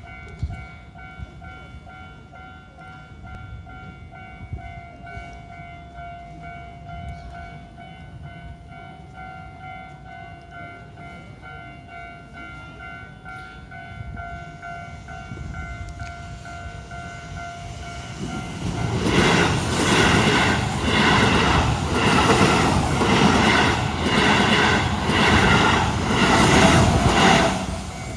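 Level-crossing warning bell ringing steadily. About nineteen seconds in, a Keihan electric train passes over the crossing for about eight seconds, loud, with a rhythmic wheel clatter about once a second, then its noise drops away.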